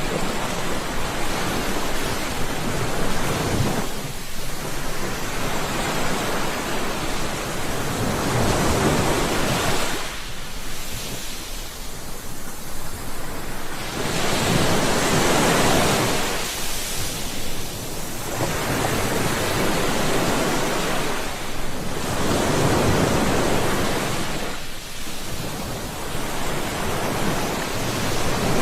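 Sea waves breaking and washing up the shore, the surf swelling and fading every five or six seconds.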